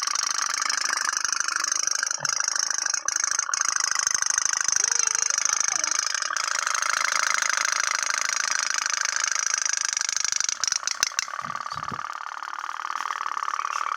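Tin pop-pop (otok-otok) toy boat running, its candle-heated boiler puttering in a rapid, steady pulse. A few sharp clicks come a little past the middle, and the puttering carries on.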